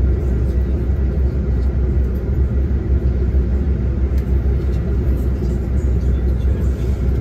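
Diesel tour coach under way, heard from inside the cabin: a steady low engine and road rumble.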